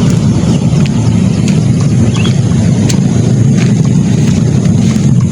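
Steady, loud low rumbling noise with no clear pitch, holding unchanged.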